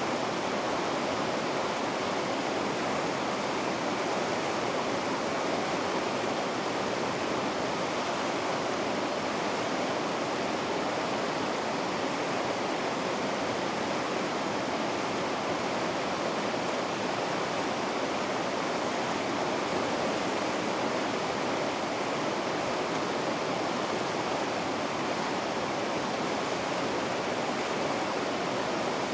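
Steady rushing of river rapids, an even, unbroken roar of white water.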